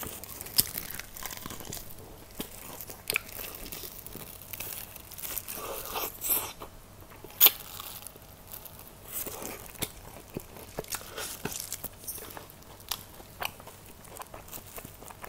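Close-miked crunching and chewing of crispy fried chicken: irregular sharp crackles of the batter as it is bitten and chewed, with one loud crack about seven and a half seconds in.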